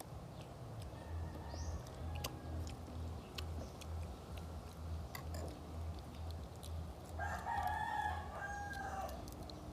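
A rooster crows once, a single long call of nearly two seconds starting about seven seconds in. Under it runs a low pulsing hum, with scattered small clicks.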